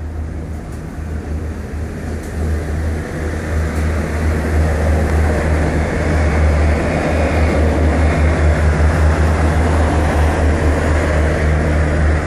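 A passenger train running past along the platform: a steady low engine drone under wheel-on-rail noise that builds over the first half and stays loud.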